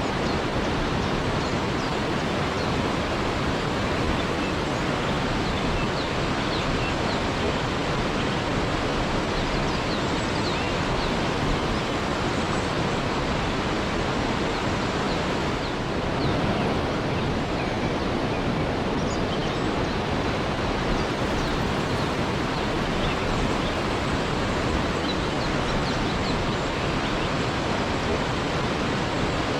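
Waterfall rushing steadily, a constant full-range roar of falling water.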